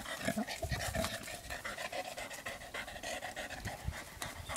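Dog panting, with scattered light knocks and clicks.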